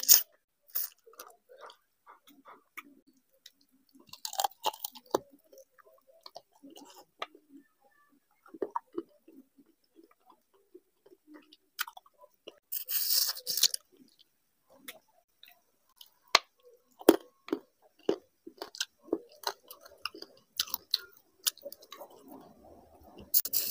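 Close-miked eating sounds of a person chewing rice and curry: irregular wet mouth clicks and smacks, with two longer hissing wet sounds about four and thirteen seconds in.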